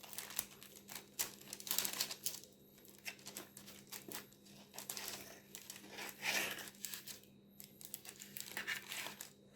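A knife cutting through a baked apple strudel, its crisp pastry crackling irregularly.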